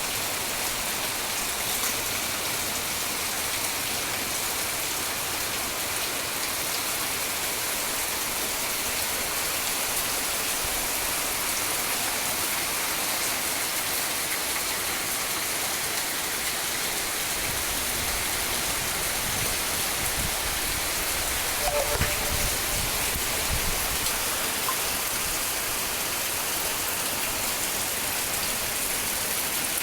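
Heavy rain pouring down steadily, an even hiss of rain on surfaces. About two-thirds of the way in comes a brief louder knock with a short pitched sound.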